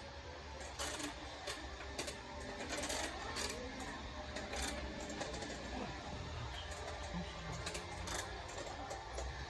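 Irregular clicks and light clatter, several a second at times, over a steady low hum: the indoor background of a retail store.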